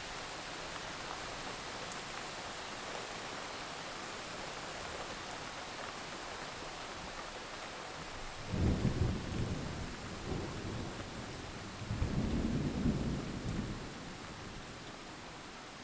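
Steady rain hissing, with two low rolls of thunder rumbling about halfway through and again near the end.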